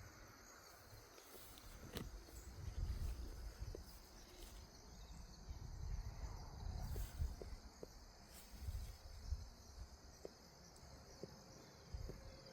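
Insects trilling steadily and faintly in the outdoor background, with an uneven low rumble on the microphone and a few soft clicks.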